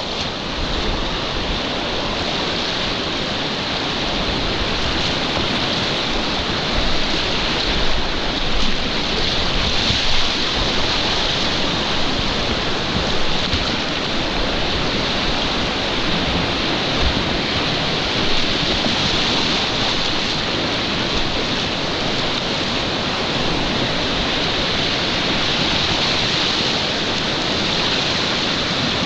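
Loud, steady rush of whitewater rapids on a mountain river, with a few louder splashing swells in the first half.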